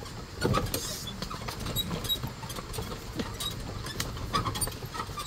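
Carabao-drawn cart jolting and rattling over rough ground, with irregular knocks.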